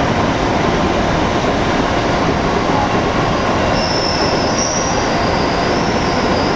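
205 series electric train running, heard from inside the car: a loud, steady rumble of wheels and running gear on the rails. High-pitched wheel squeal comes in about four seconds in and wavers on.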